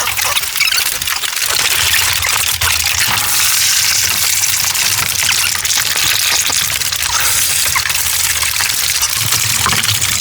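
Water running steadily: an even rushing hiss with faint low rumble underneath.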